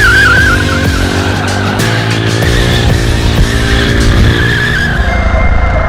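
Superbike rear tyre squealing in a rolling burnout, a wavering screech over the engine, with background music. The squeal gives way about five seconds in.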